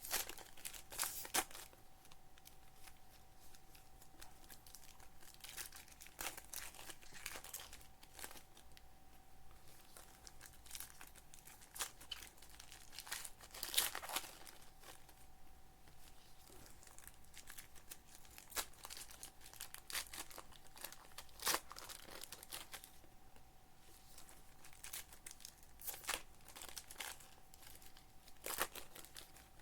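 Foil trading-card pack wrappers crinkling and tearing and cards being handled, in scattered sharp crackles, over a faint steady hum.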